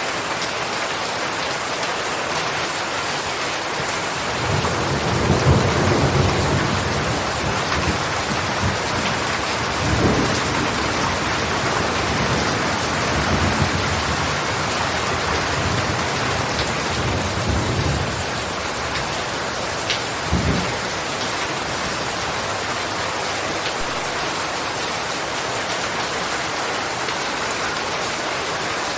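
Steady rain falling with thunder rumbling over it: a long rolling rumble begins about four seconds in, further rumbles come through the middle, and a short sharper one about twenty seconds in.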